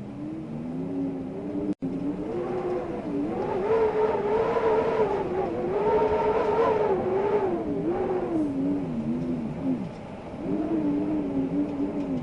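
Wind howling and whistling, its pitch wavering up and down and swelling louder through the middle, then easing off briefly near the end before rising again. The sound cuts out for an instant about two seconds in.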